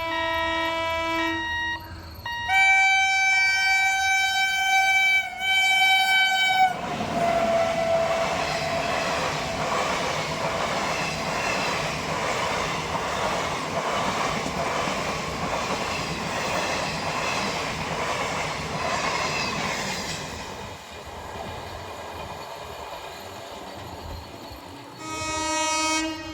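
Horn of a WAP-7 electric locomotive: a short blast, then a long blast of about four seconds that dips briefly in pitch. The train then runs past in a long stretch of wheel-and-rail noise that eases off after about twenty seconds, and the horn sounds once more near the end.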